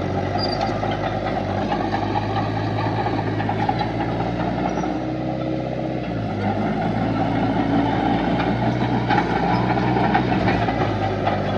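Heavy diesel engine of an earthmoving machine running steadily, its pitch shifting slightly about halfway through.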